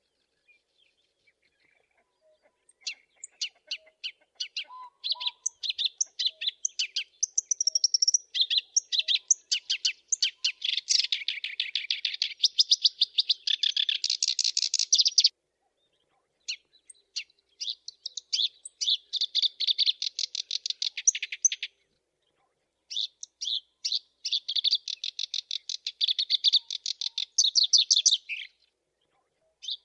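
Black-browed reed warbler singing: three long bouts of fast, chattering song made of rapidly repeated high notes, separated by short pauses.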